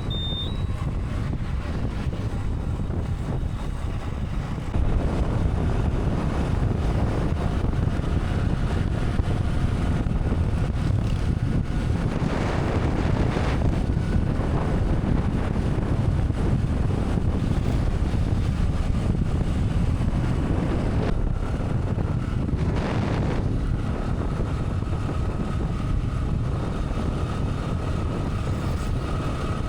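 Wind buffeting the microphone on a moving motorcycle, with the bike's engine and road noise underneath; it gets louder about five seconds in.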